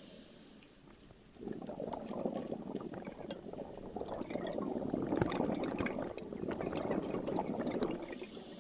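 Scuba diver exhaling through a regulator underwater: a long stream of bubbles burbling out of the exhaust valve, starting about a second and a half in and dying away near the end.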